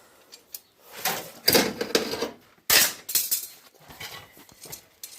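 Metal tools and hardware clattering and knocking together as they are handled, with a burst of several sharp clanks in the first half and a few lighter knocks afterwards.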